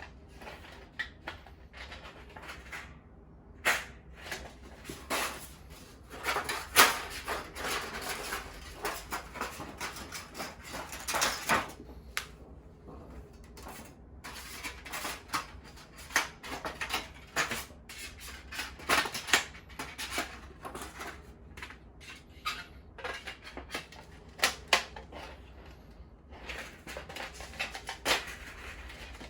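Objects being handled: a long run of irregular clicks, knocks and rustles with no steady rhythm.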